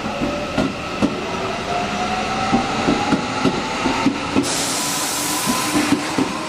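Electric commuter train running over rail joints, its wheels clacking irregularly with a slowly rising motor whine. A burst of hiss comes about four seconds in and lasts about a second and a half.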